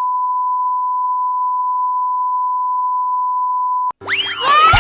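A steady 1 kHz test tone, one pure unbroken beep at constant level, that cuts off sharply about four seconds in. After a brief gap, music with rising and falling whistle-like sweeps starts near the end.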